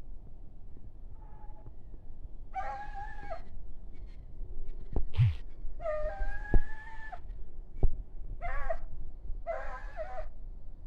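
Hunting dogs baying on a fox's trail: four drawn-out howling calls, one longer than the rest, with a few sharp knocks in the middle.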